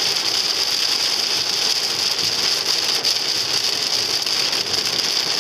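Steady rain on the car's roof and glass, heard from inside the cabin as an even hiss.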